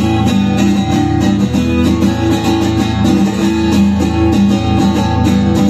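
Rock band playing live between sung lines, with no vocals: guitars over a steady beat.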